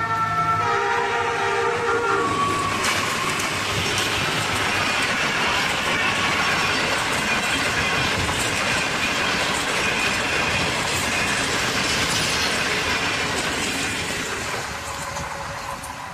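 ZCU-20 diesel locomotive's horn sounding a chord of several steady notes for the first two seconds, then the locomotive and its passenger coaches passing at speed with a loud rushing rattle of wheels on rails. The noise dies away near the end as the train recedes.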